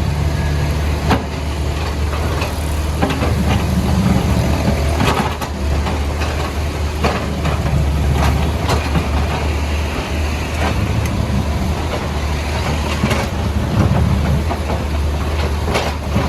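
Diesel engine of a backhoe loader running steadily, with scattered sharp knocks and scrapes from the bucket breaking up the road surface.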